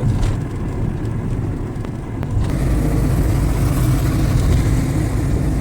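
A car driving: steady engine and road rumble that grows louder, with more hiss, about two and a half seconds in.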